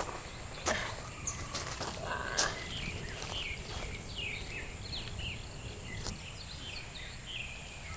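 Small birds chirping: a run of many short, quickly falling notes that picks up a couple of seconds in, over a faint steady high hiss. A few sharp taps come near the start and about six seconds in.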